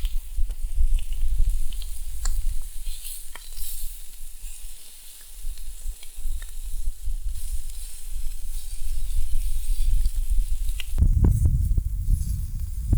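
Bacon-wrapped chicken poppers sizzling in oil on a seasoned Biji over a campfire, with a few sharp pops. Wind buffets the microphone throughout, heaviest near the end.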